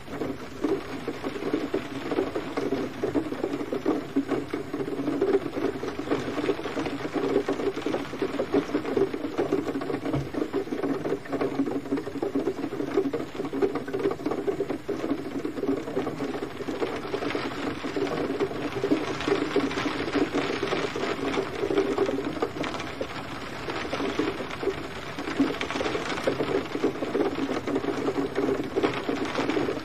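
Steady gentle rain: a dense, continuous patter of many small drops.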